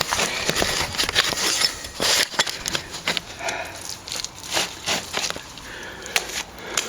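Plastering trowel working a sand-and-stopping-plaster mix into a wall crack: a run of short, irregular scraping strokes with a few sharp clicks.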